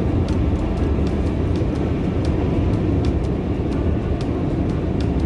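Steady road and engine noise inside a moving car's cabin, a constant low rumble with scattered faint ticks.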